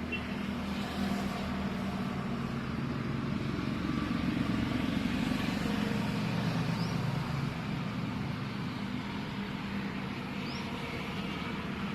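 Road traffic rumble with a vehicle engine swelling louder and fading around the middle, and a couple of faint, brief high chirps.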